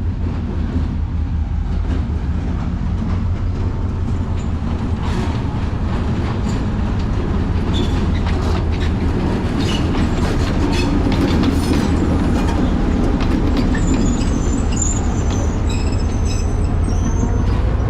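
A train rolling along the rails: a steady low rumble with repeated wheel clicks, growing louder in the middle, and a high thin wheel squeal near the end.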